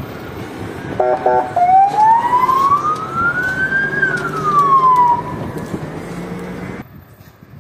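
Emergency vehicle siren: a few short blasts about a second in, then one slow wail rising in pitch and falling again, over a steady rumble that cuts off suddenly near the end.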